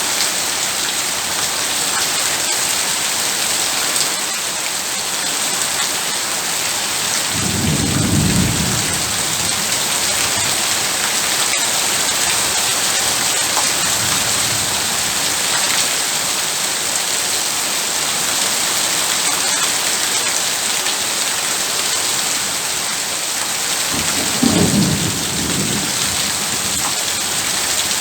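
Heavy rain falling steadily in a continuous hiss, with two short low rolls of thunder, one about eight seconds in and one near the end.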